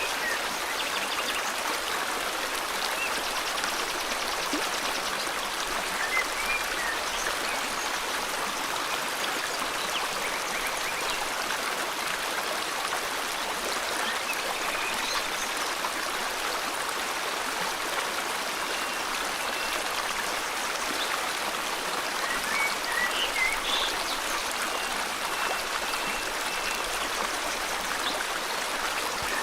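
River water flowing steadily in a continuous rush. Short bird chirps come now and then over it, more of them together near the end.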